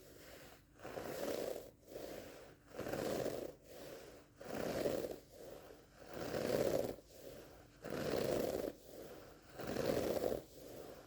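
Close-up scratching on a carpet rug in steady back-and-forth strokes, a louder stroke alternating with a softer one, about one stroke a second.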